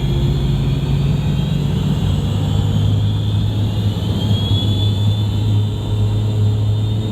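The rear-mounted Pratt & Whitney JT8D jet engines of a McDonnell Douglas MD-80 running, heard inside the passenger cabin as a steady low hum. A faint high whine rises in pitch from about two and a half to five seconds in.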